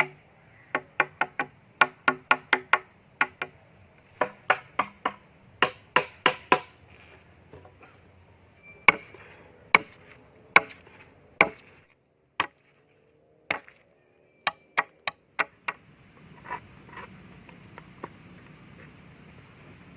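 Repeated chopping blows of a blade or tool striking wood: quick runs of about four strikes a second at first, then slower, single, heavier strikes.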